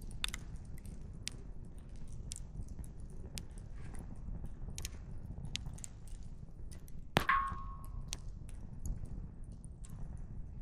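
Firewood crackling in a campfire: scattered sharp pops over a steady low rumble, with one loud pop about seven seconds in.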